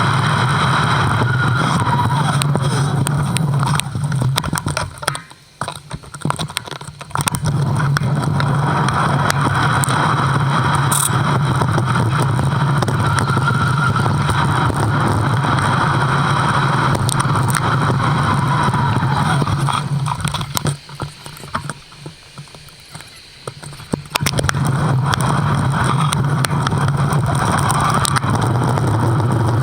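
Steady roar of wind and riding noise on an action camera's microphone while riding. It drops away twice: for a few seconds about five seconds in, and again for a few seconds past the twenty-second mark.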